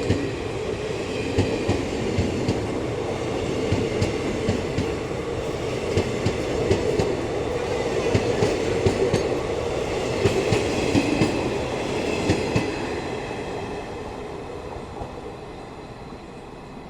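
Passenger train rolling past, its wheels clattering over rail joints with a steady rumble, fading away in the last few seconds.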